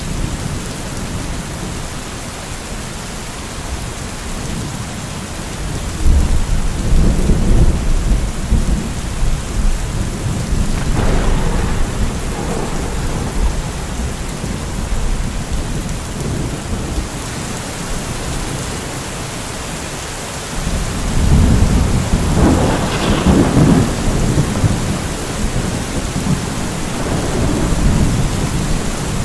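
Steady heavy rain with rolling thunder: one long rumble begins about six seconds in and a second, louder one about twenty-one seconds in, each fading slowly.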